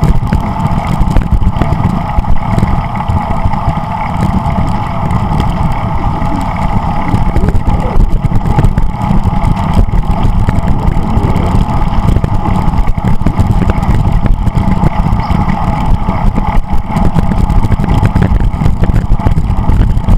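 Steady rushing wind on the microphone of a camera riding on a moving bicycle, mixed with road and tyre noise; the rumble is constant, with no gaps or single events.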